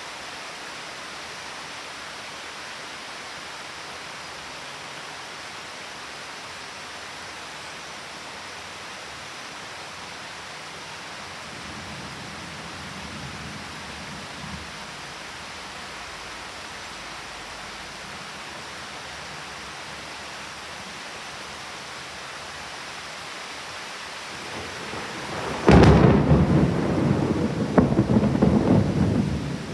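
Thunderstorm: steady rain hissing, with a faint low rumble about halfway through. Near the end a loud thunderclap breaks in suddenly and rolls on, with a second crack a couple of seconds later.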